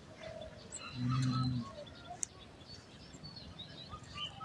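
Scattered bird chirps, with a short low hum lasting about half a second about a second in.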